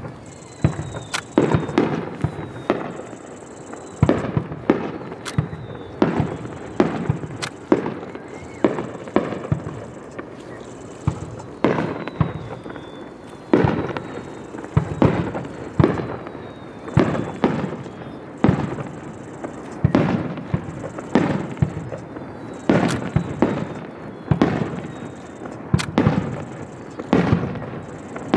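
Aerial fireworks shells bursting one after another, about one or two sharp booms a second, each trailing off in a rumbling echo, with a few faint falling whistles between them.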